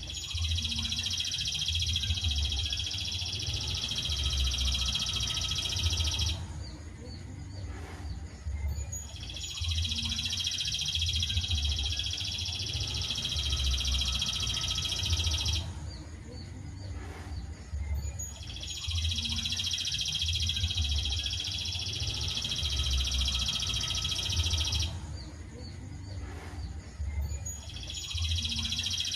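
Songbird masteran recording: a dense, high continuous trill that lasts about six seconds, stops for about three, and repeats at even intervals, three times over with a fourth beginning near the end, above a steady low rumble.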